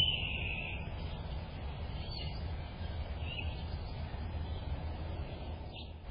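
Bird calling: one slightly falling note held just under a second, then two faint short chirps a little over a second apart, over a steady low rumble. A short knock right at the start is the loudest sound.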